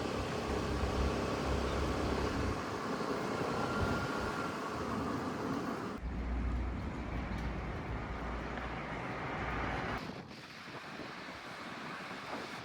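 Wind buffeting the microphone: a steady rushing noise with heavy low rumbles, the sound changing abruptly about six and ten seconds in.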